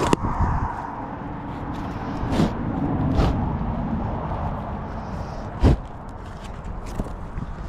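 Several sharp knocks and thumps over a steady low rumble, the loudest a little over halfway through.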